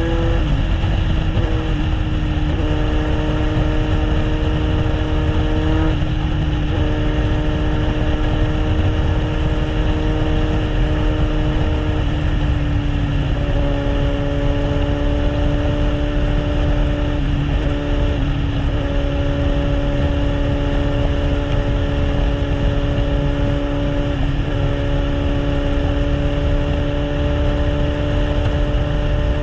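Kawasaki Z800's inline-four engine through an SC Project aftermarket exhaust, cruising at a steady speed. Its note holds nearly level, stepping slightly in pitch a few times as the throttle changes, over a continuous low rumble.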